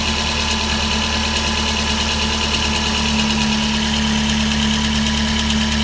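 Suzuki Swift Sport ZC32S's 1.6-litre four-cylinder engine idling cold, with a steady light rattle over the idle. The owner says the rattle appears only at cold start and goes once the engine is warm and the idle settles; a dealer found no fault and put it down to resonance from the aftermarket centre pipe.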